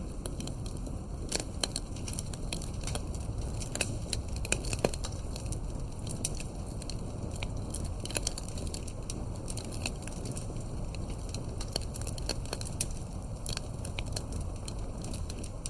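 Campfire crackling: irregular sharp pops and snaps, a few louder than the rest, over a steady low rumble of burning.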